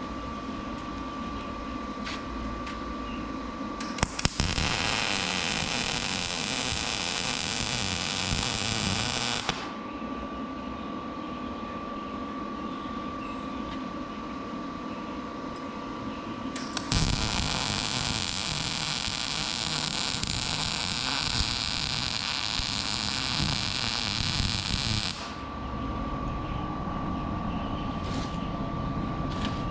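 Two runs of electric arc welding, a steady crackle that starts and stops abruptly: one about four seconds in lasting some five seconds, a longer one from about 17 to 25 seconds. Between the runs a steady high hum.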